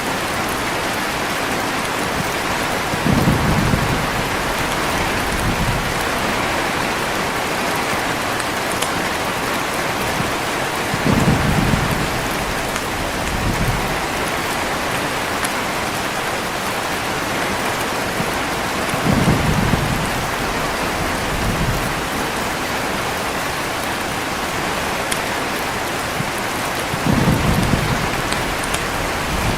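Heavy rain falling steadily, with low rolls of thunder four times, about every eight seconds, each followed by a fainter rumble.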